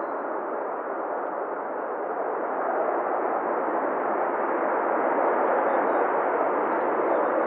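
Airbus A350-900 jet airliner noise, a steady rushing roar from its Rolls-Royce Trent XWB engines and airflow during the landing, growing louder about two and a half seconds in.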